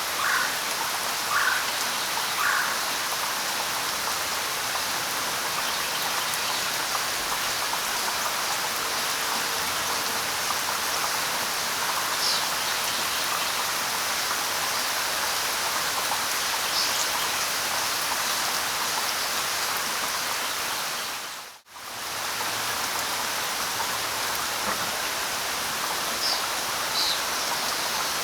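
Steady light rain pattering on leaves, with a few short bird chirps: three near the start and a handful of higher, thinner ones later. The rain cuts out for a split second about three-quarters of the way through.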